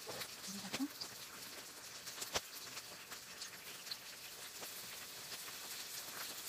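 An okonomiyaki frying on an electric hot plate, a faint steady sizzle with scattered small pops and crackles, and one sharper click a little past two seconds in.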